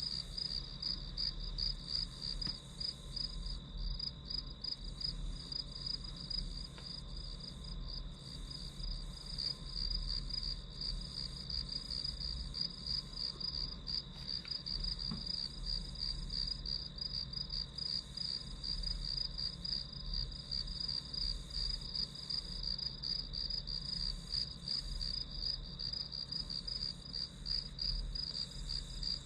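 Crickets chirping in a steady, fast-pulsing, high-pitched trill.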